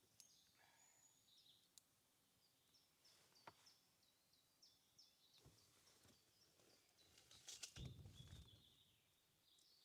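Faint birdsong: a small bird repeating short high chirps, about two a second. Near the end there is a brief, louder rustle.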